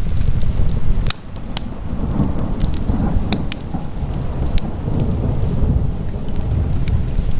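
Wood fire burning in a fireplace: sharp crackles and pops scattered over a steady low rumble of the flames.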